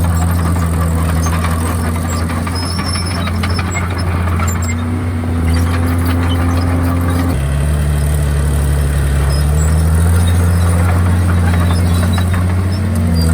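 Komatsu D51PX bulldozer's diesel engine running under load, its pitch rising and falling a little, with a faint high squeal from the steel tracks. The sound changes abruptly about halfway through.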